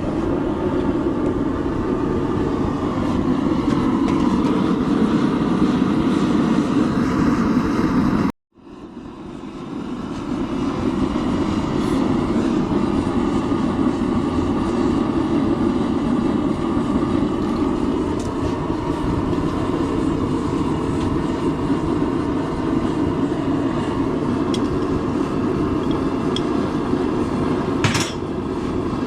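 Blacksmith's forge running with a steady, even roar while a steel bar heats. It cuts out abruptly about eight seconds in and builds back up over a second or two.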